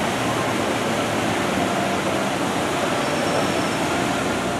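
Steady noise of a Disneyland Railroad train rolling along the track, mixed with water churning in the lagoon beside it.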